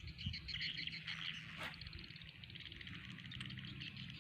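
Frogs and insects calling in a rapid chirping chorus over a steady low hum, with a single short click about one and a half seconds in.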